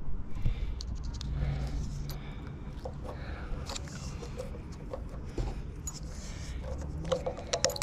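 Scattered light clicks and clinks of hand tools and brass water-heater fittings being handled, more of them near the end, over a steady low background rumble.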